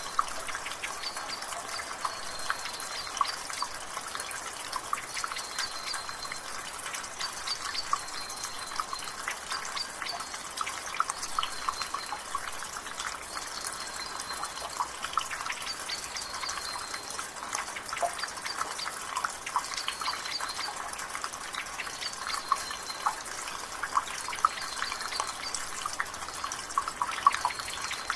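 Rainwater dripping and trickling from a gutter, many small drips over a steady wash of drizzle. A bird repeats a short high call every second or two in the background.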